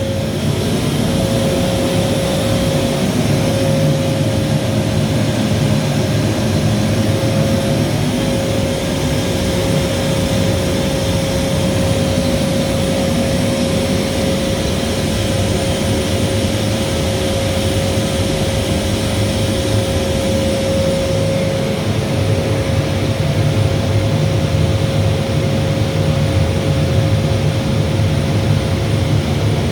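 Bosch steam boiler plant running: a loud, steady rumble with a constant mid-pitched tone over it and a hiss, unchanging throughout.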